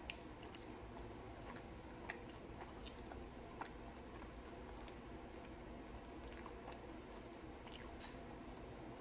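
Close-miked chewing of barbecue chicken: small, scattered mouth clicks and smacks over a faint steady background.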